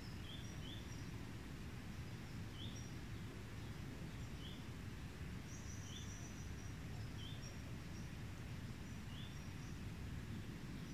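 Faint outdoor ambience: a low steady rumble with small birds giving short, high chirps every second or so.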